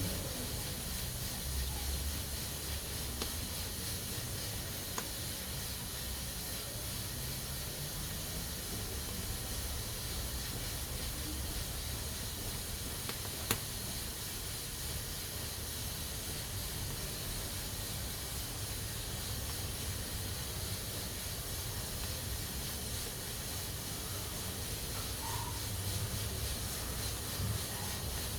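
Pressure cooker hissing steadily as steam escapes from its valve, with one sharp click about halfway through.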